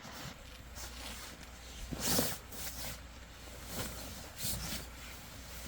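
A dog snuffling in three short breathy puffs, the loudest about two seconds in, over a faint low hum.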